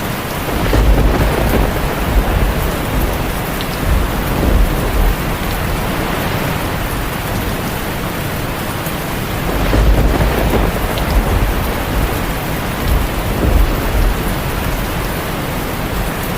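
Heavy rain drumming steadily on a tin roof, with thunder rumbling twice: once starting about half a second in and again about halfway through, each rumble lasting several seconds.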